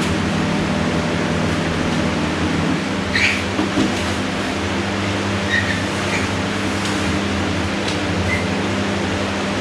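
Shop vac running steadily with a motor hum, with a few light knocks and rattles of the nozzle around three and five and a half seconds in.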